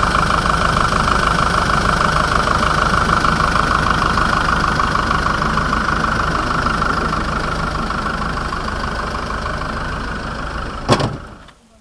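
Land Rover Defender engine idling steadily with the bonnet up. Near the end comes a sharp bang as the bonnet is brought down, and the engine sound cuts off.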